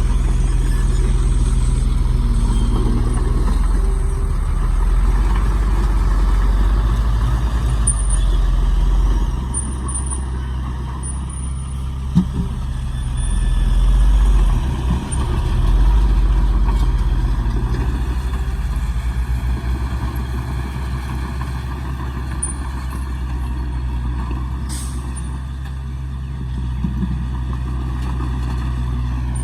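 Heavy diesel earth-moving machinery running steadily, its engine note swelling and easing between about 9 and 17 seconds in, with a sharp click about 12 seconds in.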